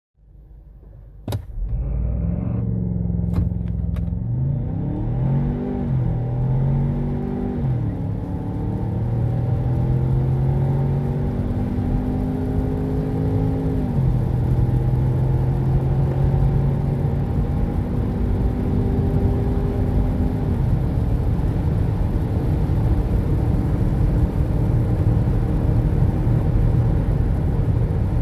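2021 Ford Bronco Sport Badlands' 2.0-litre EcoBoost turbocharged four-cylinder at full-throttle acceleration from a standstill, its pitch climbing through the gears and dropping back at each of four upshifts of the 8-speed automatic, the upshifts coming further apart. A sharp click sounds about a second in, before the engine note builds, and the run ends in a steady engine and road rumble.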